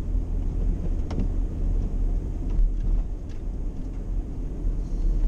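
Walk-in cooler condensing unit running, compressor and condenser fan on, as a steady low rumble. The fan is wired to run continuously until a faulty pressure switch is replaced.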